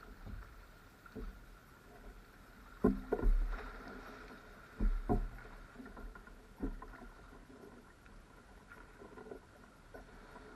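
Kayak being paddled on sea water: paddle splashes and hollow knocks on the hull over lapping water, the loudest knocks about three and five seconds in.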